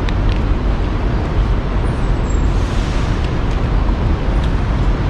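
Steady low rumble of road traffic, with a few faint clicks near the start.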